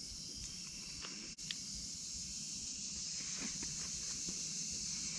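Crickets chirping in a steady high chorus, with faint scattered rustles and light taps. There is a brief gap in the sound about a second and a half in.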